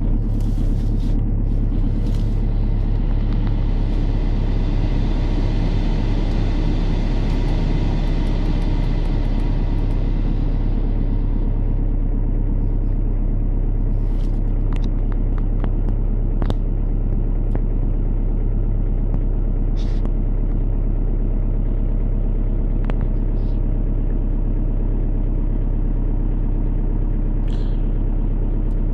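Audi A4 1.9 TDI four-cylinder turbodiesel idling steadily just after a cold start at about −26 °C. A higher hiss over the engine fades away about ten seconds in, and a few light clicks come later.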